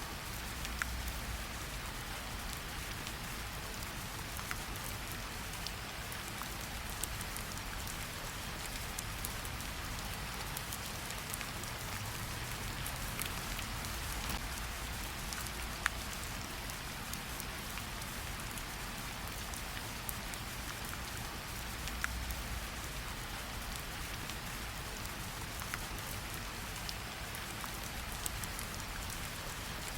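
Steady rain falling on tree leaves, a constant soft hiss with scattered individual drops ticking, a few louder ones standing out.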